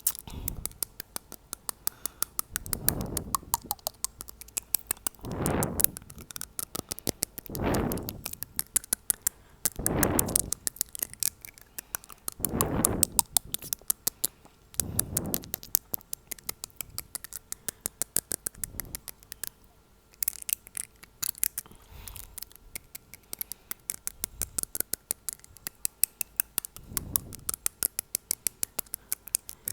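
Fingernail tapping on teeth in quick, sharp clicks, several a second. Every two to three seconds comes a soft burst of air blown onto the microphone, stronger in the first half.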